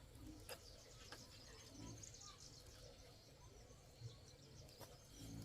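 Faint birds chirping over a quiet rural background, with a few soft clicks and low thumps.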